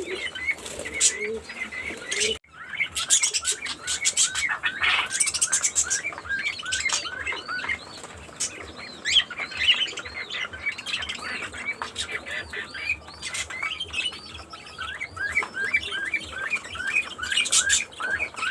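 Budgerigars chirping: rapid runs of short, repeated rising-and-falling chirps, several a second, with scattered scratchy clicks. The sound breaks off briefly about two seconds in and then goes on.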